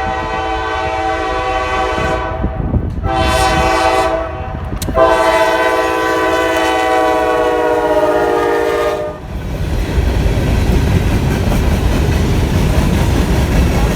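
Norfolk Southern diesel freight locomotive's air horn sounding the end of a grade-crossing signal: a long blast trailing off, a short one, then a final long one. After the horn stops the train goes past at speed, a steady heavy rumble of wheels on rail.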